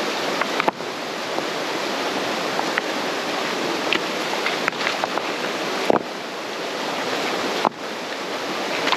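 Mountain-runoff creek water rushing steadily, with a few faint short clicks over it. The rush breaks off suddenly for an instant a few times.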